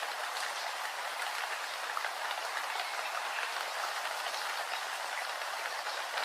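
Steady rain with a dense patter of drops.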